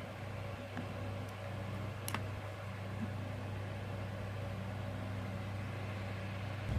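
Steady low electrical hum with a few faint, light clicks, the sharpest about two seconds in, from handling the plastic toy robot's parts.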